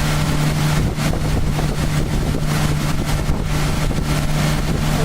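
A pontoon boat's motor running steadily, with wind noise on the microphone.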